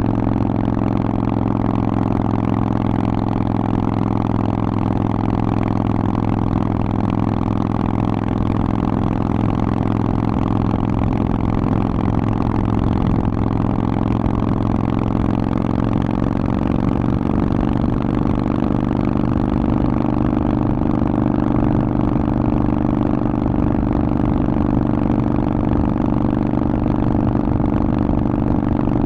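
Harley-Davidson Forty-Eight's air-cooled V-twin running through a Vance & Hines aftermarket exhaust, held at a steady engine speed. Its pitch creeps up slightly a little past the middle.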